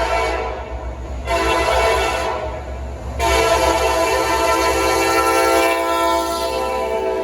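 Freight locomotive's multi-note air horn sounding in blasts: one ending about half a second in, a short one around a second and a half, then a long one from about three seconds on. This long–short–long pattern is typical of the end of a grade-crossing horn signal. A low rumble from the train runs beneath.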